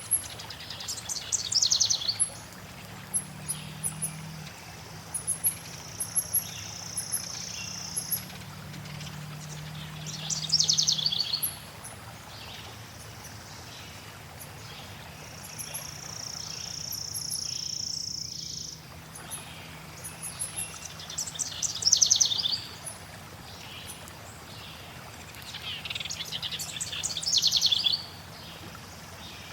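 Several songbirds singing: loud trilled phrases recurring every several seconds, two long steady whistled notes, and short high chirps, over a faint steady rush of flowing water.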